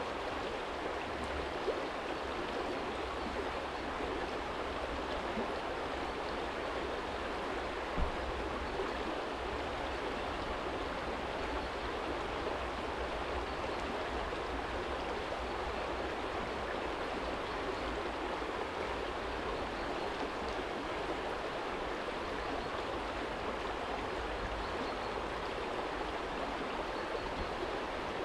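Small stream flowing steadily over a stony bed, with a low rumble of distant city traffic beneath it and one brief knock about 8 seconds in.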